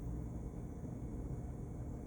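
Steady low hum of a refrigerator running with its door standing open, with a faint hiss over it.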